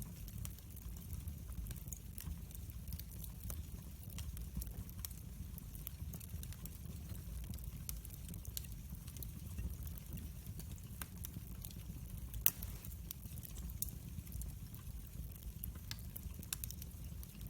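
Wood fire burning in a fireplace: irregular crackles and pops over a steady low rumble, with one sharper pop about two-thirds of the way through.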